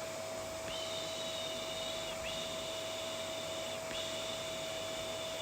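Vacuum cleaner running steadily: an even hiss with a constant hum. Over it come three long, high whistle-like tones, each about a second and a half, with a short break between them.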